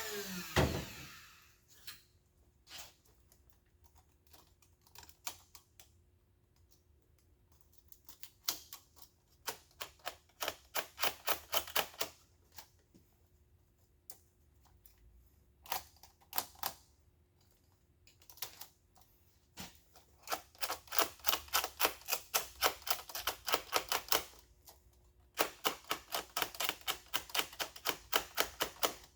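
A die grinder winds down with a falling whine in the first second. Then come bursts of quick, sharp hand strokes, about four or five a second, as a hand deburring tool works the edges of a multi-layer steel head gasket's bolt holes.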